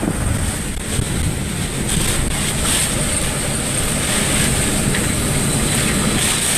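Hurricane eyewall winds blowing hard and steadily, with gusts buffeting the microphone; the wind swells about two seconds in.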